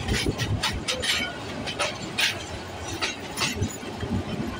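Passenger train coaches rolling past close by: a steady low rumble with irregular sharp clacks from the wheels over the rail joints.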